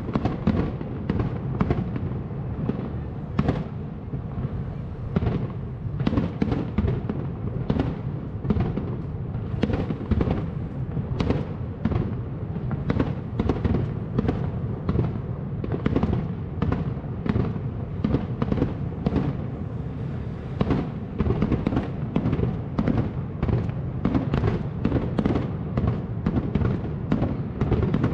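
Fireworks display going off in a continuous barrage, with sharp bangs coming two or three times a second.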